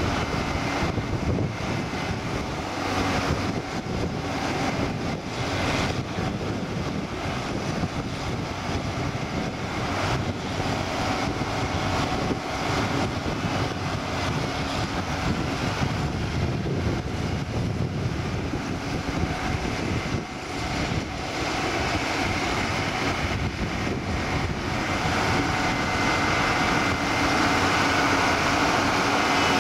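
Farm machinery running steadily: tractor engines and a Dewulf potato harvester working in the field. It grows louder near the end.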